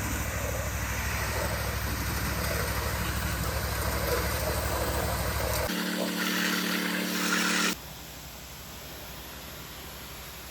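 Pressure washer engine running steadily under the hiss of water spraying. About two-thirds of the way through it switches abruptly to a different steady hum, then drops suddenly to a quieter even hiss.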